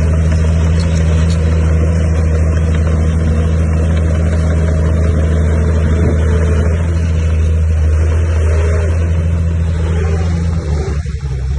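Heavy diesel engine of earthmoving machinery running steadily under load, a deep even drone. Its pitch shifts down near the end.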